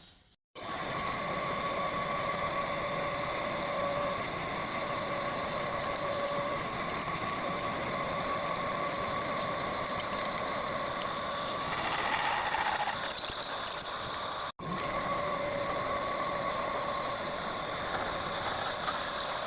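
Homemade rotary drilling machine running steadily with a constant mechanical whine. It starts abruptly about half a second in, breaks off for an instant about 14 seconds in, and carries on.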